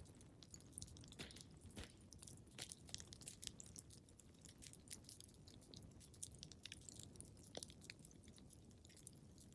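Wood fire crackling in a fireplace: irregular small snaps and pops over a low, steady rumble of the flames.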